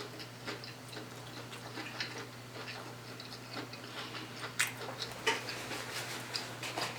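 A person chewing food close to the microphone, with soft mouth crackles and a few sharp clicks, over a steady low electrical hum.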